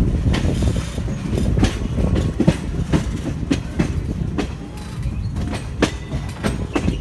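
Indian Railways express passenger train running, heard from aboard a coach. A steady low rumble is broken by frequent, irregular sharp clicks and clacks of the wheels over rail joints.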